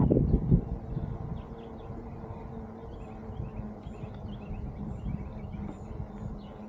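Mountain bike rolling along a dirt trail: a few loud bumps right at the start, then a steady low rumble, with small birds chirping repeatedly from about three seconds in.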